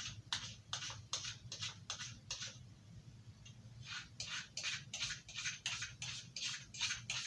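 Knife blade stroked back and forth on an Arkansas whetstone: quick scraping swipes about three a second, which stop for about a second near the middle and then resume.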